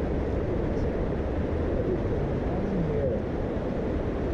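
Steady low rumble of a boat's motor running.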